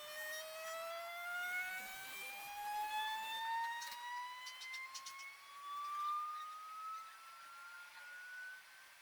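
Bambu Lab A1 3D printer's stepper motors sounding a steady tone with overtones that climbs slowly and evenly in pitch, typical of the printer's vibration-compensation frequency sweep during self-calibration. A few faint clicks come about four to five seconds in.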